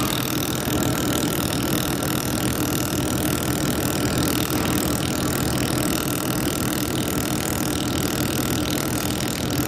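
Handheld fiber laser welding machine running: a steady mechanical hum with an even hiss over it, unchanging throughout.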